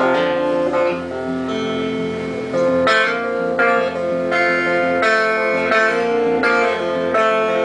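Live acoustic guitar playing a slow instrumental passage with chords left ringing. It is softer at first, then from about three seconds in a fuller chord is strummed roughly every 0.7 s.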